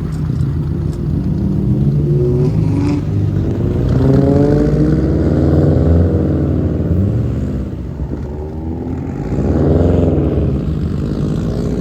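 Car engine being revved: its pitch climbs for a few seconds and falls back, then a second, shorter rev near the end.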